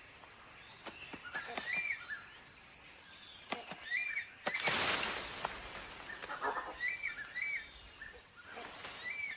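Tropical rainforest ambience: a bird repeats a short chirping call every second or two, with a brief loud rush of rustling noise about halfway through.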